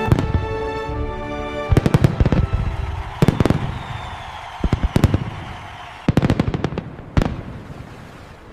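Fireworks going off in clusters of sharp bangs and crackles about every second or two, over music that fades away in the first second.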